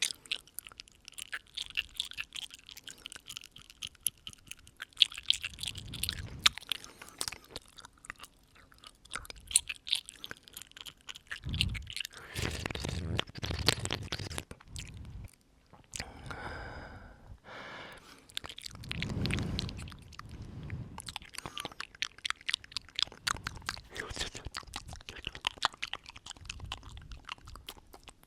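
Close-miked ASMR mouth sounds: rapid wet clicks and smacks of the lips and tongue, with a few longer breaths blown at the microphone.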